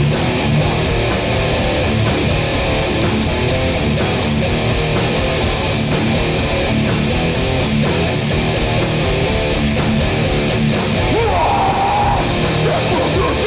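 Hardcore punk band playing live at full volume: distorted electric guitars over bass and drums in an instrumental stretch between vocal lines.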